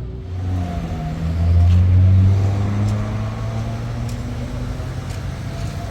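A motor vehicle engine running. It builds to its loudest about two seconds in, then carries on at a steady level.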